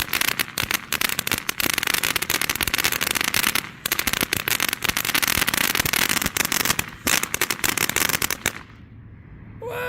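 Dominator Fireworks Rapture fountain spraying with a dense, rapid crackle over a steady hiss. It dies away sharply about eight and a half seconds in as the fountain burns out.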